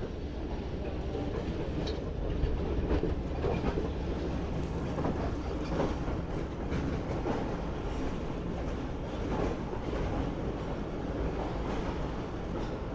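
Pakistan Railways passenger train running along the track: a steady low rumble with faint clicks of the wheels over the rails.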